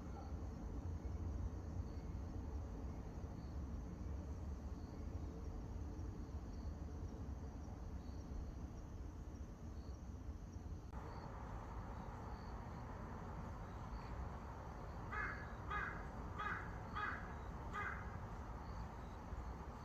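A crow cawing five times in quick succession, over a steady low rumble and faint, evenly spaced high chirps.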